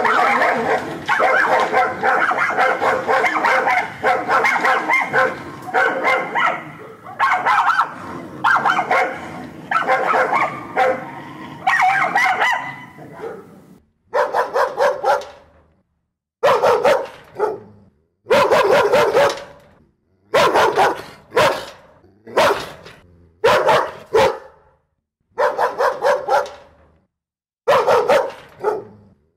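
Dog barking over and over: rapid, almost unbroken barking for about the first half, then short volleys of a few barks each, with a second or so of silence between volleys.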